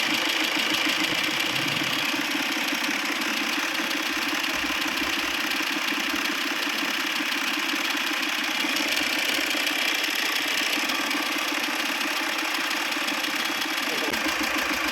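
Tata Vista engine idling steadily, run at slow idle so that engine oil left in the head, radiator and hoses after an oil-cooler failure is pushed out of the cooling system with the coolant.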